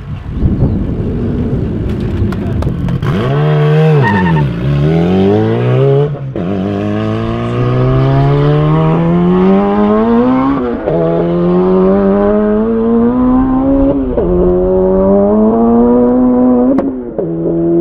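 Highly tuned Honda Integra drag car accelerating flat out on a standing half-mile run. After a noisy rush in the first few seconds, the engine note dips and climbs as it pulls away, then rises through the gears with about four upshifts, each a sudden drop in pitch before it climbs again.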